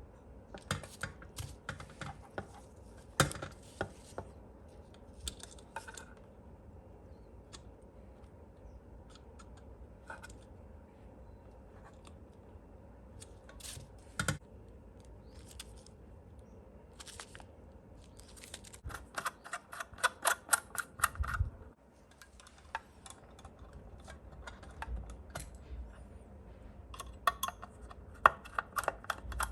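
Small metal and plastic parts and hand tools being handled during assembly of a scale RC excavator kit: scattered sharp clicks and taps, with a quick run of rapid clicking about two-thirds of the way through.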